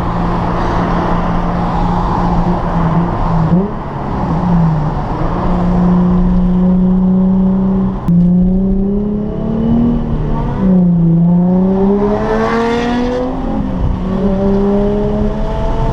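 Sports car engine under hard acceleration, its revs climbing and falling back several times as it is run up through the gears.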